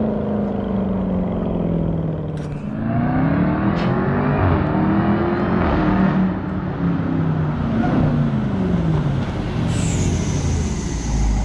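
Jeep Trackhawk's supercharged 6.2-litre V8 running through a muffler-deleted exhaust. The engine note falls off, rises again about two and a half seconds in as it accelerates, then goes through several more rises and falls.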